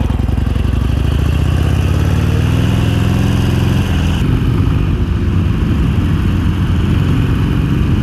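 Harley-Davidson Iron 883's air-cooled V-twin engine running as the bike rides. Its note rises slowly for the first few seconds, then changes abruptly about four seconds in.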